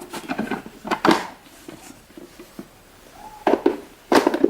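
Plastic clicks and knocks of a stick vacuum's dust cup and filter being handled, with a louder clatter near the end.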